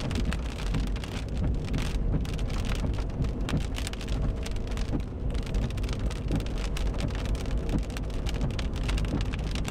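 Heavy rain pattering steadily on a moving car, dense rapid drop hits over a constant low rumble from the car on the road.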